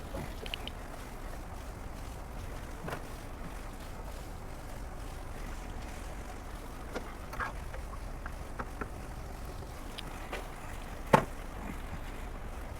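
Handling noise from wrapping exhaust heat wrap around a pipe: light rustles and small clicks, with one sharper knock about eleven seconds in, over a low steady hum.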